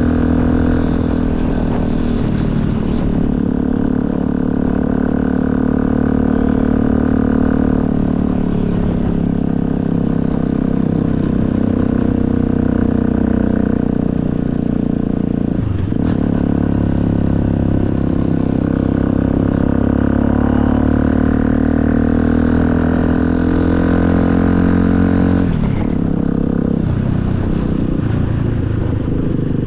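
Motorcycle engine running steadily while being ridden; its note dips and climbs back up three times.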